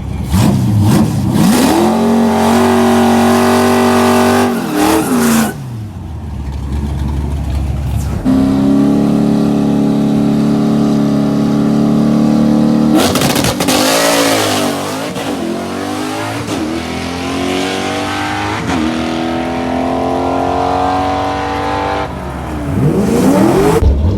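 Drag car engine revving hard: it is held at a steady high rpm for several seconds, then accelerates with its pitch climbing and stepping down again several times as it shifts up through the gears, and falls away near the end.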